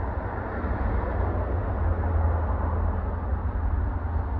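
Norfolk Southern freight train's diesel locomotives approaching from a distance, a low, steady rumble.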